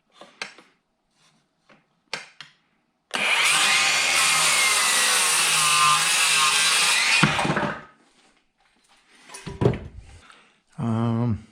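Battery-powered saw cutting through a wooden board for about four seconds, the motor whine shifting as the blade works through, with light knocks of handling before and after.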